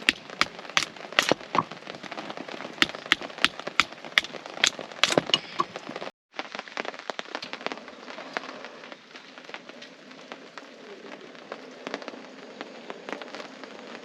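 Wood campfire crackling, with sharp popping snaps two or three times a second for the first half. After a brief break it goes on as a softer, denser crackle over a steady hiss.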